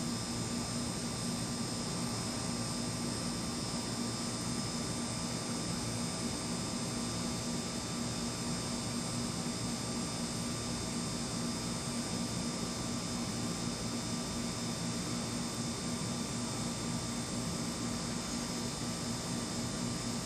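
Steady hiss with a continuous low hum and a few faint steady high tones; no thunder is heard.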